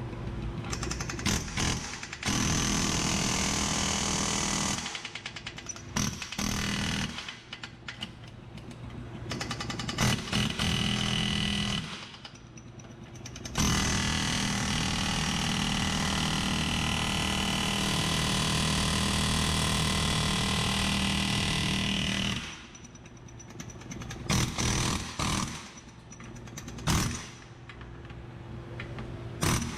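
Pneumatic air hammer hammering on a Jeep Wrangler's suspension control arm to work it loose, in bursts: a run of a couple of seconds early on, a long run of about nine seconds in the middle, and short stabs in between.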